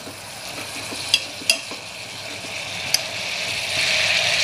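Chopped flat bean pods sizzling in hot oil in an aluminium pressure cooker while a metal spatula stirs them, with three sharp clicks of the spatula against the pot. The sizzle grows louder near the end.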